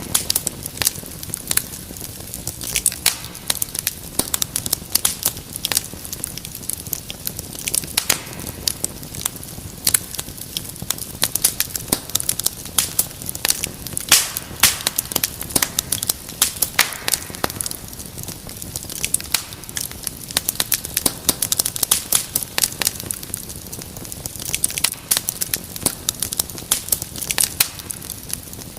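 Wood fire crackling steadily, with many irregular sharp pops and snaps over a soft hiss.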